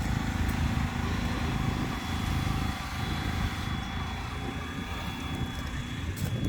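A large engine idling with a deep, rapid, even rumble, and a thin steady high tone above it.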